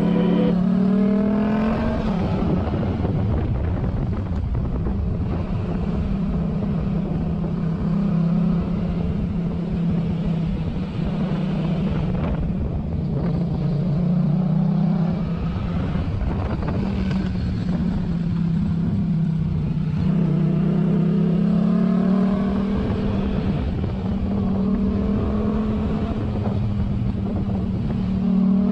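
Motorcycle engine running on the road under steady wind noise. It holds a steady drone, and the pitch climbs as it accelerates near the start and again about two-thirds of the way through.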